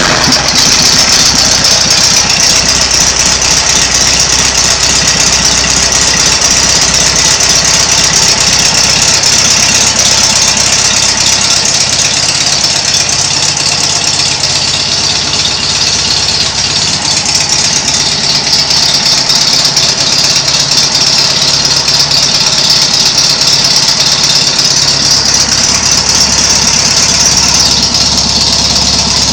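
Volkswagen engine running steadily under test, loud and unchanging, with a strong high hiss over the engine note.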